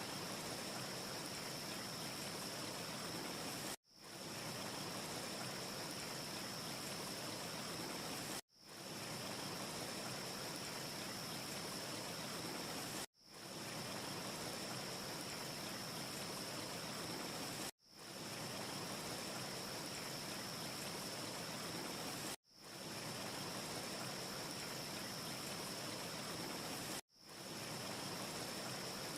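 Steady rushing hiss with a thin high whistle through it, cutting out suddenly about every four and a half seconds (six times) and fading straight back in, like a short repeating loop. No fire crackle is heard.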